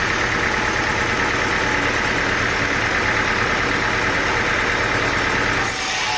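Sawmill engine running steadily at a constant speed. The sound changes abruptly near the end.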